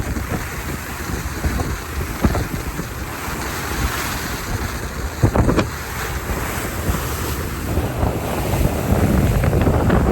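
Wind buffeting the microphone over the rush of water along a motor yacht's hull as it runs under way, with a couple of brief knocks about five seconds in.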